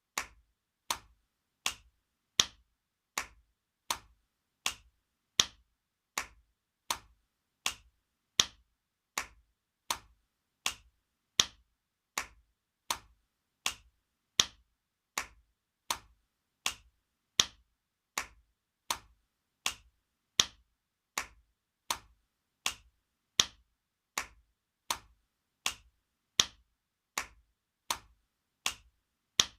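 Spanking sound effect: sharp slaps repeating at a steady pace, a little under one and a half a second, with every fourth slap louder than the rest.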